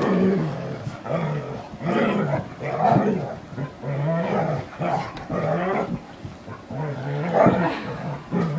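Puppies play-fighting, with a run of short, pitched play-growls coming about once a second.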